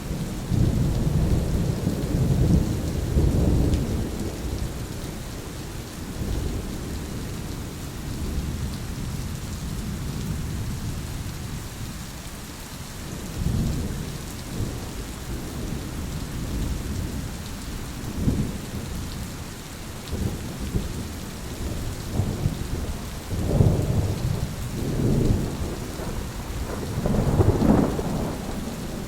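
Thunderstorm: steady rain hiss with rolling thunder rumbling again and again, a long roll at the start and several stronger rumbles near the end.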